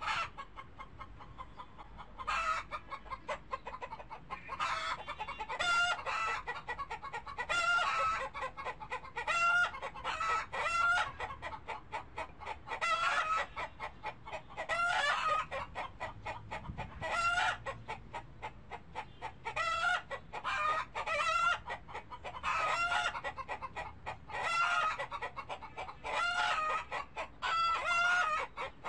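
Birds calling over and over: short pitched calls with clear overtones, coming in clusters every second or two.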